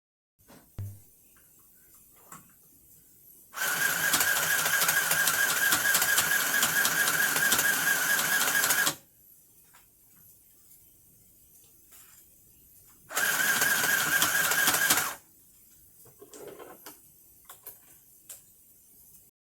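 Sew Mighty mini sewing machine stitching in two runs: a long one of about five seconds starting a few seconds in, and a shorter one of about two seconds later on. Each run is a steady small-motor whine with fast needle ticking. Faint clicks and handling sounds come between the runs.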